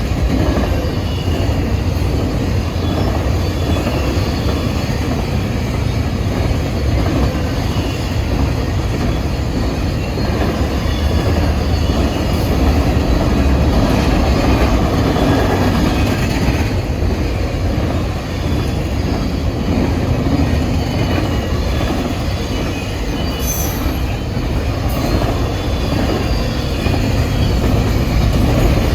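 A train's cars rolling past: a steady, loud rumble of steel wheels on the rails.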